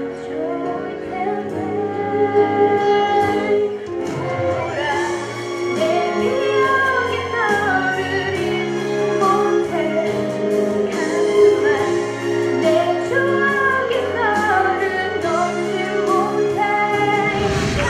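A woman singing a melodic song over sustained instrumental accompaniment.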